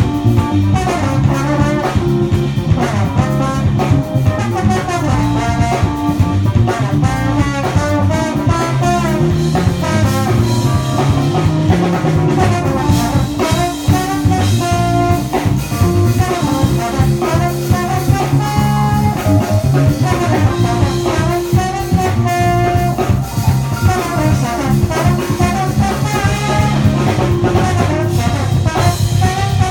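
A band playing jazz, with brass horns over a drum kit and a low bass line.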